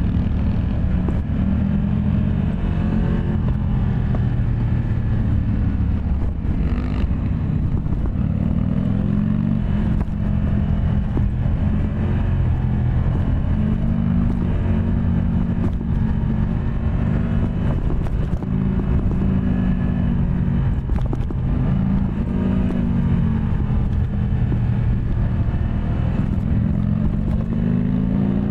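Yamaha MT-10 SP's crossplane inline-four engine under way, its pitch rising under acceleration and dropping at each gear change, again and again, as the bike is ridden.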